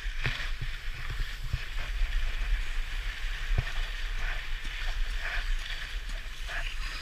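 Skis sliding and scraping over snow in a run of hissing swishes, with scattered clicks and knocks, over a steady low wind rumble on the camera's microphone.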